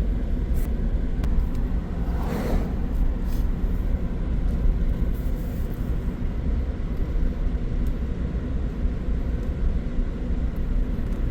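Vehicle driving along a road: a steady low rumble of engine and tyres, with a brief swell about two seconds in.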